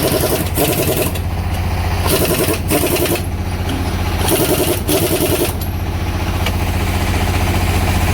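Pneumatic impact wrench rattling in six short bursts, in three pairs about two seconds apart, over the steady low running of an engine.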